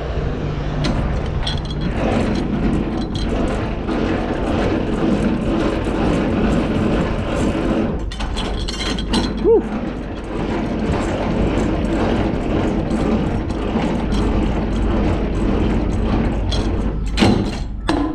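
Semi truck's diesel engine running steadily, with scattered mechanical clicks and clunks.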